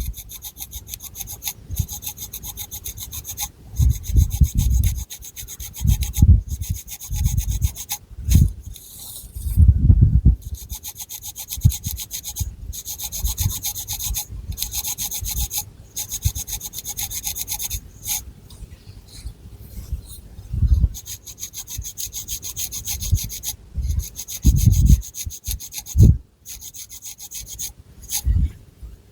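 Long fingernails scratching through thick hair and across the scalp in quick rasping strokes. The strokes come in bouts of a few seconds with short pauses, and dull low thumps sound under them.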